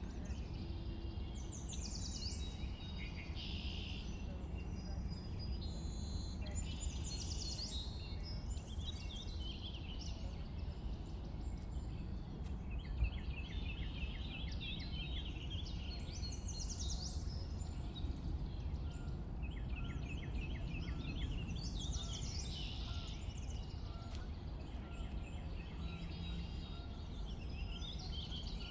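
Several songbirds singing in spring, chirps, whistled phrases and rapid trills of repeated notes overlapping one another, over a steady low background rumble.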